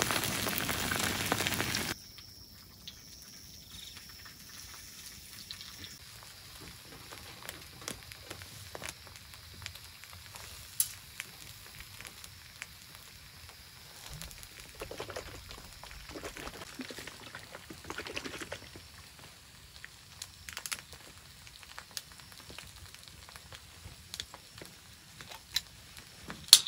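Steady rain hissing that cuts off abruptly about two seconds in. It gives way to quiet scattered ticks and a few sharp clicks.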